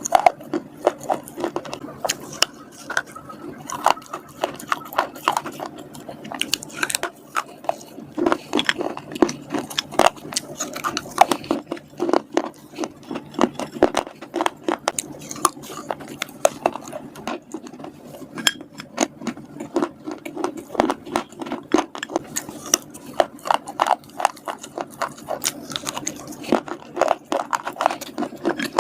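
Close-miked biting and chewing of slate chips and slate grooves: a quick, irregular run of sharp, brittle crunches, several a second.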